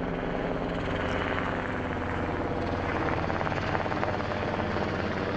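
Firefighting helicopter flying close by, its rotor beating steadily with a continuous engine drone.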